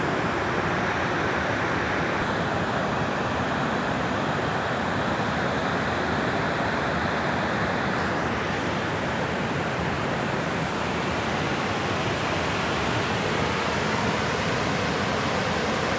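Steady rush of water flowing at a dam, an even, unbroken noise.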